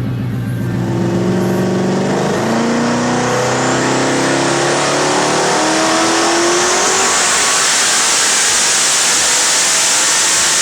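Twin-turbo Coyote 5.0 V8 Mustang accelerating hard through the gears, the engine note climbing and dropping back at each shift. A rushing noise builds over the second half.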